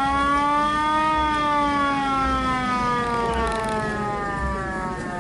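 A siren wailing: one long tone that rises a little for about a second, then slowly falls in pitch.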